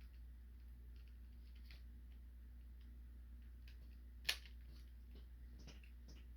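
Faint scattered clicks of hard plastic action-figure parts being handled and fitted together, with one sharper click about four seconds in, over a low steady hum.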